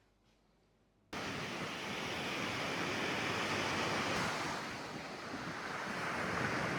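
Ocean waves washing onto a beach, cutting in abruptly about a second in, then a steady surf hiss that eases and builds again.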